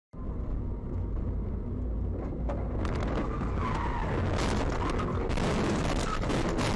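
Dash-camera audio of a car on the road: a steady rumble of engine and road noise starts abruptly. About three seconds in it is joined by louder hissing noise and several sharp knocks.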